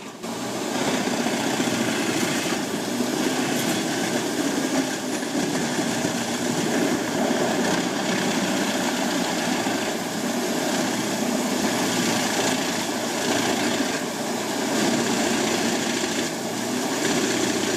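Jenz HEM 700D wood chipper running steadily under load: its engine noise mixed with the rasping of large logs being shredded.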